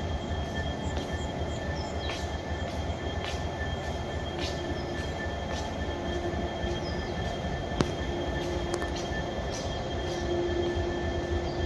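Train running on the rails: a steady low rumble with a faint steady high whine and sharp clicks about once a second.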